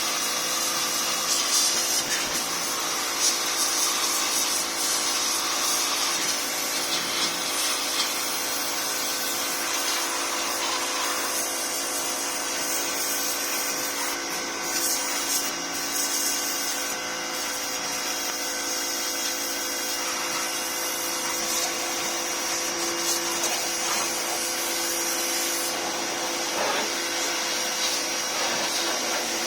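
Steady machine whir with hiss and a constant hum, running without a break.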